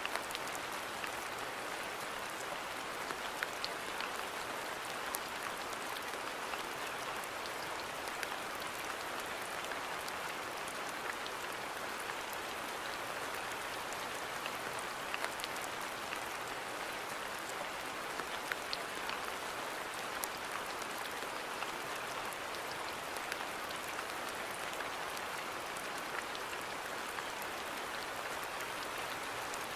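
Steady rain falling on a garden, an even hiss with many small distinct drops ticking through it.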